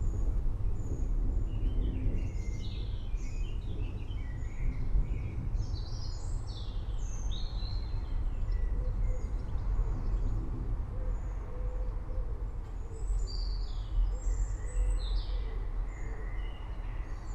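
Several forest birds chirping and trilling, many short high calls overlapping, over a steady low rumble.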